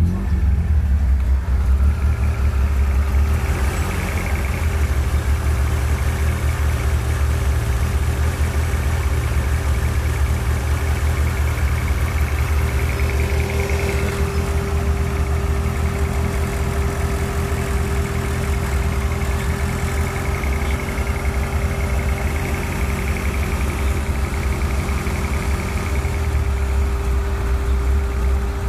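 Toyota 4A-GE 20-valve 'Silvertop' four-cylinder engine idling steadily, with a constant higher tone running over the low idle rumble.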